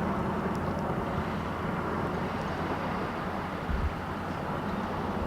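Steady low rumble of jet airliner engine noise across an airport, with a brief low thump a little under four seconds in.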